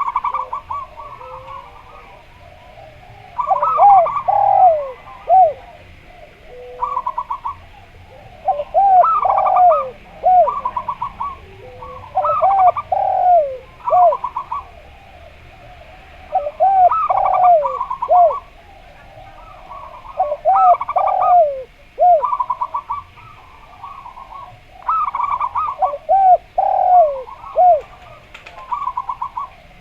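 A zebra dove (perkutut) and a derkuku dove calling in turn and overlapping. Rapid stuttering trills alternate with lower, hooked coos, in phrases repeated every three to four seconds.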